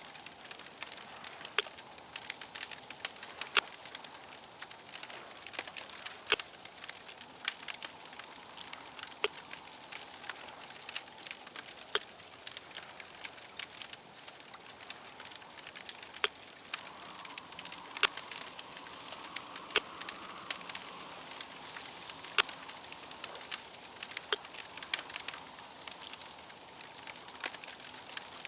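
Wood fire crackling: a steady hiss broken by many irregular sharp pops and snaps.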